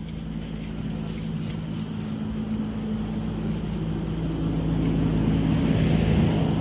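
A motor vehicle's engine running close by, a steady low hum under traffic noise, growing louder toward the end.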